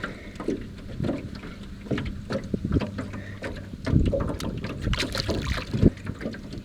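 Wind buffeting the microphone while water slaps against a small aluminium jon boat, with irregular knocks and thumps against the hull, heaviest a few seconds in.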